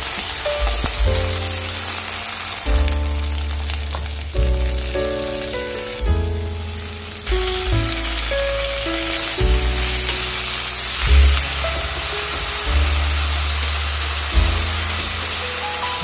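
Potato strips, onion and gima and thankuni greens sizzling as they are stir-fried in an aluminium kadai and turned with a wooden spatula. Background music with a melody and a bass line plays over it.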